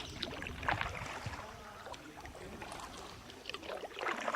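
Kayak paddles dipping and splashing in calm sea water, with water trickling off the blades; the clearest splashes come just under a second in and again near the end.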